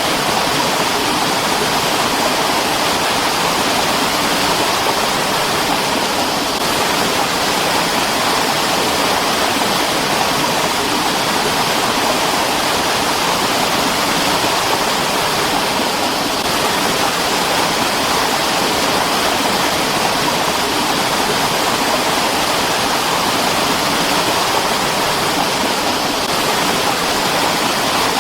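Mountain stream water rushing: a steady, even rush with no breaks or changes.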